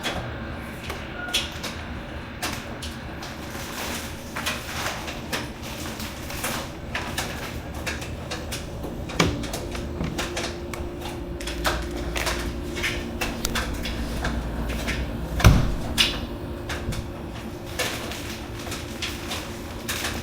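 Miele front-loading washing machine running, with irregular clicks and knocks from the turning drum over a low hum. A steady motor tone comes in about halfway through, and there is one loud thump about three-quarters of the way in.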